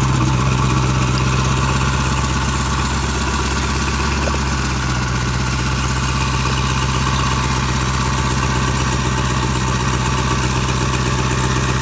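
Modified Mopar Hemi V8 idling loud and steady, with a throbbing low rumble.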